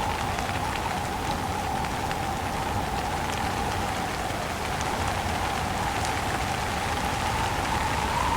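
Steady rain falling with wind, a dense hiss scattered with small drop ticks. A whooshing band of wind sinks a little midway and rises again near the end.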